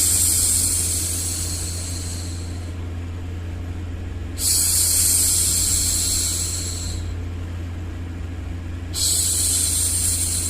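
A woman's drawn-out hushing 'shhh', repeated about every four and a half seconds. Each one starts suddenly and fades away over about three seconds. A steady low hum of background noise runs underneath.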